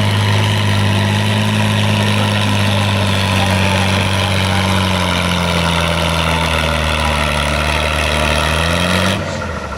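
Modified pulling tractor's engine running steadily at low speed with a loud, deep drone. Its pitch sags slightly, and the sound drops in level near the end.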